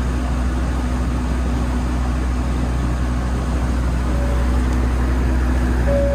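Passenger boat's engine running steadily with a low drone. Two short single-pitch tones sound about four seconds in and near the end.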